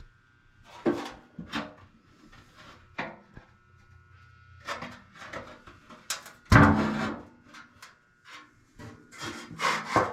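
Irregular scraping, rubbing and knocking as the furnace blower's metal parts are handled and worked on, with one louder knock a little past the middle.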